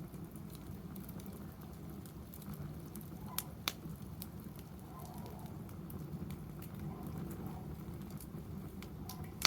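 Wood fire burning in a fire pit, crackling steadily with scattered small clicks and a few sharp pops: two close together about a third of the way in, and one at the very end.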